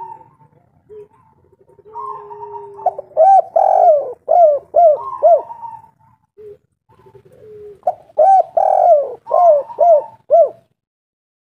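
Spotted dove singing: two phrases a few seconds apart, each a soft low lead-in note followed by a run of quick, loud, arched coos.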